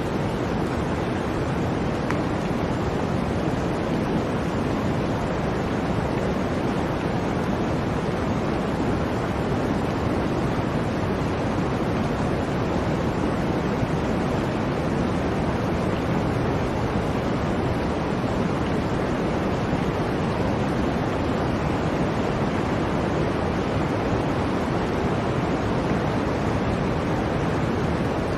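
Blizzard wind blowing as a steady, even rushing noise, with no gusts, breaks or other events.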